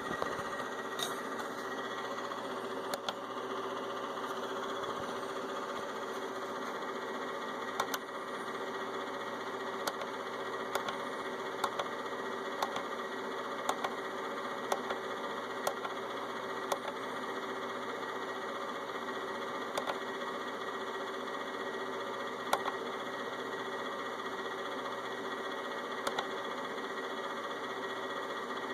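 Power inverter's left cooling fan running with a steady whir and a held whine, with a sharp tick every second or so: the fan is noisy.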